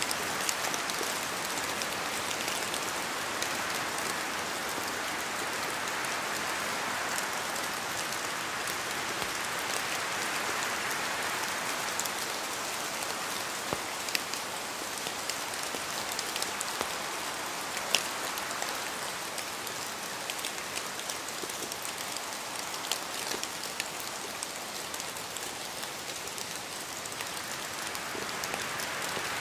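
Steady rain falling, an even hiss with scattered sharp drips and splashes on a surface, easing slightly in the second half and building again near the end.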